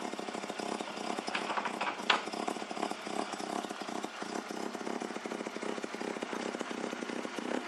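Mazda RX7 race car's 13B rotary engine idling with a rapid, choppy pulse. The engine is freshly rebuilt and running on newly fitted smaller fuel injectors.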